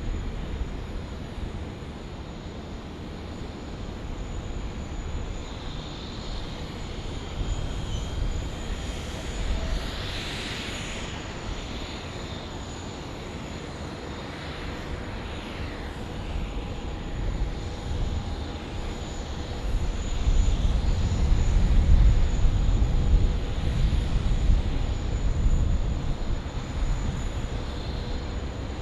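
Jet airliner engines rumbling low and steady, growing louder about two-thirds of the way through.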